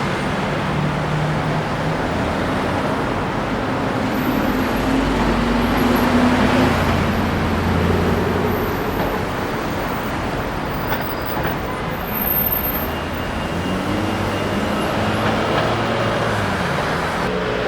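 Busy street traffic: vehicle engines running and passing in a steady hum, with low engine notes rising and falling.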